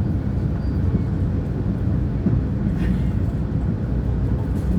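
CP diesel railcar UDD 0467 under way, heard on board: a steady low rumble of the diesel engine and wheels on the rails, with a faint steady hum.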